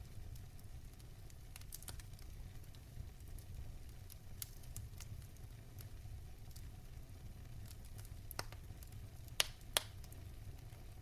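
Fire crackling in a fireplace over a steady low rumble, with scattered small snaps and two louder pops close together near the end.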